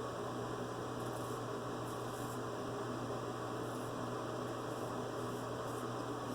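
Steady electrical mains hum with a background hiss, and a few faint, brief high scrapes of a straight razor cutting through lathered stubble.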